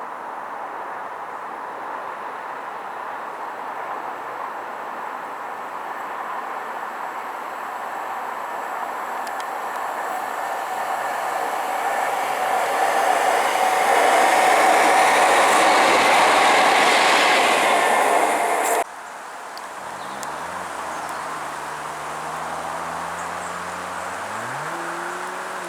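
Train passing on the West Coast Main Line: its running and rail noise builds over about fifteen seconds to a peak, then stops abruptly at a cut. After the cut comes a quieter stretch of low humming tones that step up and down in pitch.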